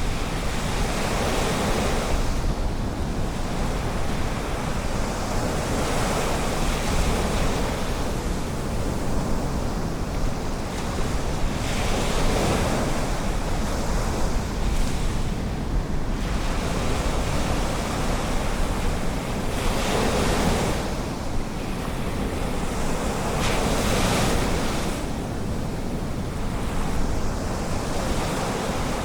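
Ocean surf breaking and washing up the beach, swelling every four to six seconds, over a steady low rumble of wind on the microphone.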